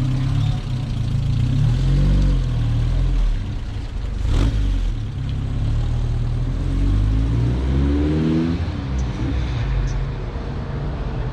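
Car engine running, then accelerating with a rising pitch about seven to eight seconds in; a single sharp knock about four seconds in.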